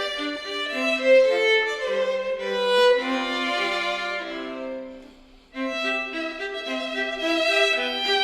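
Violin and viola playing a duet in moving melodic lines. A phrase tapers away about five seconds in, and the playing resumes moments later.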